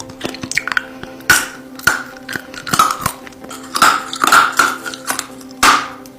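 Close-miked mouth sounds of a hard lollipop being sucked and licked: a run of wet clicks and smacks with a few louder slurps, about a second in, around four seconds in and near the end.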